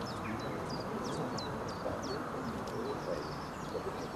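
Small birds chirping steadily, about three short high chirps a second, each a quick downward sweep ending in a brief held note, over steady low background noise.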